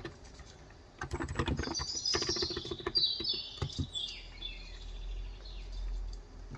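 Typing on a Cox Endeavor electrostatic-capacitive (35 g) tenkeyless keyboard: a quick burst of keystrokes starting about a second in, with a bird chirping a twittering phrase of falling notes over it. A low rumble follows in the second half.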